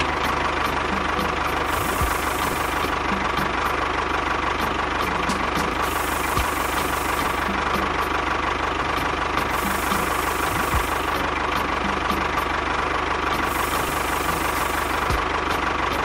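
Engine sound running steadily at one even pitch, going with a small model tractor-bulldozer as it pushes sand.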